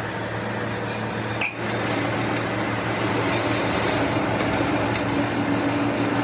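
A workshop machine running steadily with a constant hum, a single sharp click about a second and a half in.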